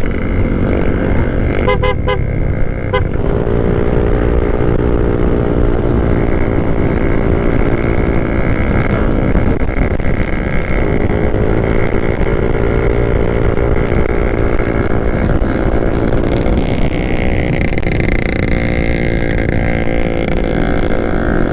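Yamaha Aerox 155 scooter engine running under way, its note rising and falling with the throttle, over heavy wind rush on the microphone. A horn beeps in a few short pulses about two seconds in.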